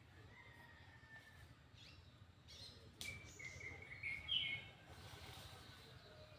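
Faint bird calls outdoors: a thin whistle near the start, then a quick run of chirps about three to four and a half seconds in. A single sharp click comes just before the chirps, over a low steady background rumble.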